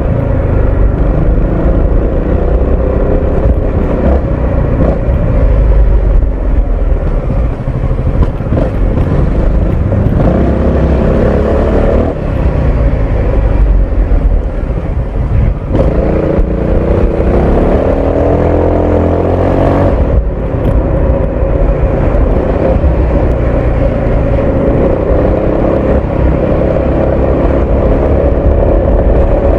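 Honda ADV 350 scooter's single-cylinder engine and exhaust running on the move, the pitch climbing under throttle around ten seconds in and again from about sixteen seconds, then falling away when the throttle is closed near twenty seconds.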